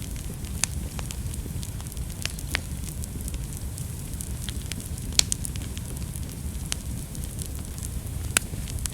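Wood fire burning in a fireplace: a steady low rumble of flames with scattered sharp pops and crackles, the loudest pop about five seconds in and another near the end.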